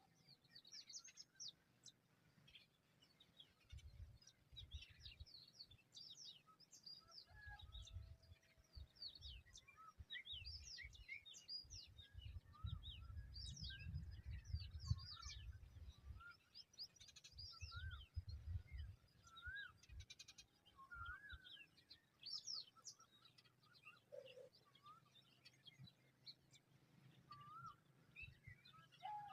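Faint bird chirping: many short, high chirps and calls scattered throughout. A low rumble comes and goes through the middle.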